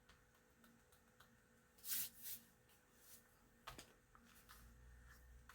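Near silence with a few faint rustles of paper being handled: two short ones about two seconds in, and a small click just before four seconds.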